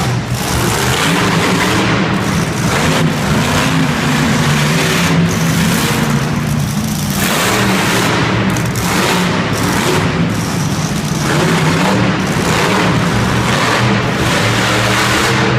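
Monster truck's supercharged V8 engine running hard and revving, its pitch rising and falling repeatedly.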